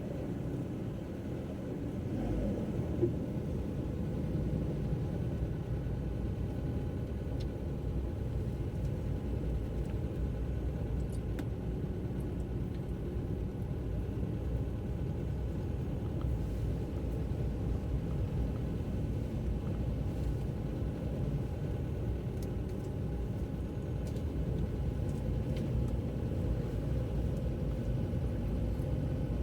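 Steady low rumble of a car driving along, engine and road noise, with one short knock about three seconds in.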